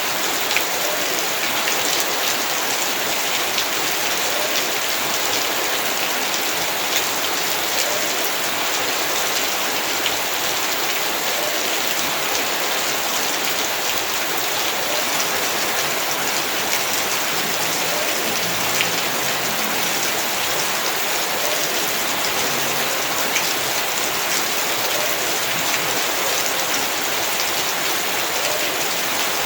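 Heavy rain falling steadily, a dense hiss with many sharp drops pattering on hard surfaces.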